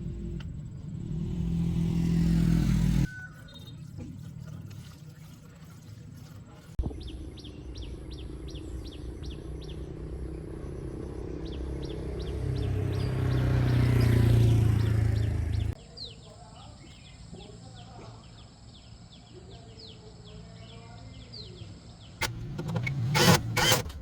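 Vehicle engines passing, swelling and fading twice, with birds chirping in between; the sound breaks off abruptly several times, and there are a few sharp clicks near the end.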